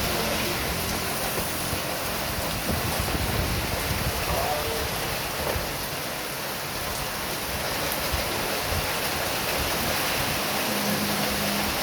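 Heavy rain pouring down steadily, with gusting wind.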